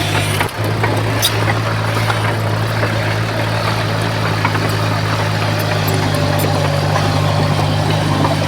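Heavy diesel engine of an earthmoving machine running steadily, with a brief dip about half a second in.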